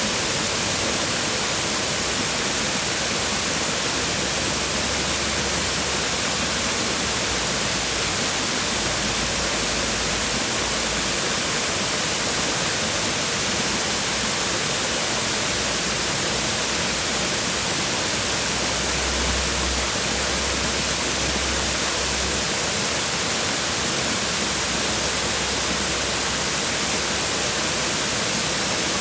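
Waterfall: water falling and splashing onto rocks in a steady, even rush with no breaks.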